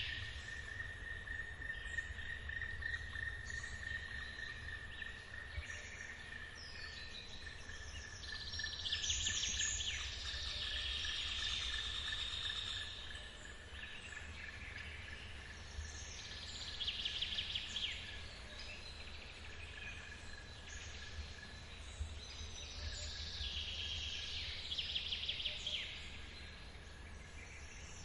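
Forest ambience: birds singing in repeated quick trilling phrases that come and go every few seconds, over a steady high insect drone that fades out near the end, with a low steady rumble underneath.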